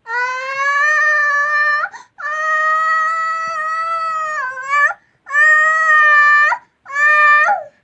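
A toddler's high voice held in long steady notes, four in a row with short breaks, the longest nearly three seconds, each dipping or sliding at its end: the child making a mixer noise.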